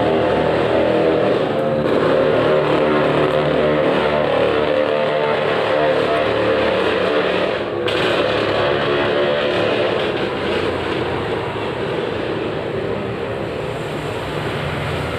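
A vehicle engine running steadily, its pitch drifting slightly, with a single short knock about eight seconds in.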